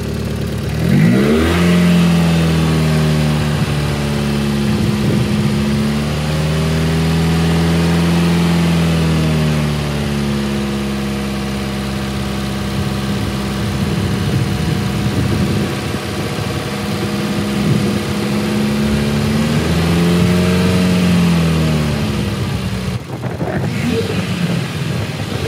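Toyota MR2 AW11's 4A-GE four-cylinder engine being revved by hand at the throttle: it climbs about a second in, holds high for several seconds, drops back, then runs steadily until a second, shorter rev near the end. The revs are given to circulate cooling-system flush during a coolant flush.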